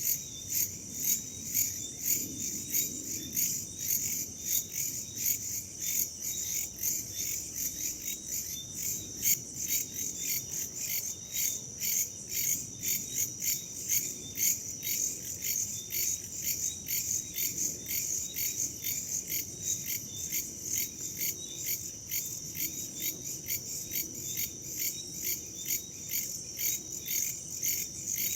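Crickets chirping in a steady, evenly repeated high-pitched train, with a faint low rumble of wind beneath.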